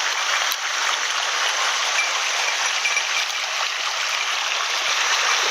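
Small mountain headwater stream running, a steady rush of water.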